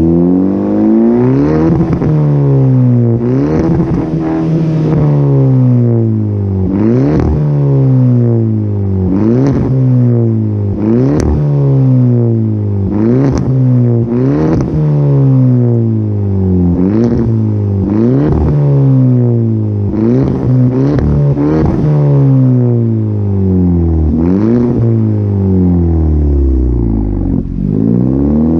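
Straight-piped 2018 Hyundai Elantra Sport's turbocharged 1.6-litre four-cylinder being revved in repeated quick blips, about one every second or two, each rising sharply and falling back toward idle.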